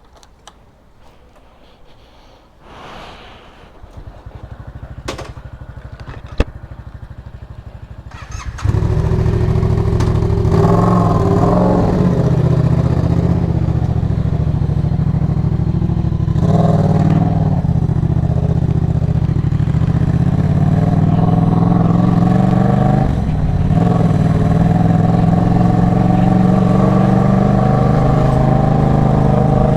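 A 2023 Yamaha MT-07's parallel-twin engine with an Arashi aftermarket exhaust starts suddenly about a third of the way in and then idles loudly and steadily, with a couple of short throttle blips soon after. A few faint clicks come before it starts.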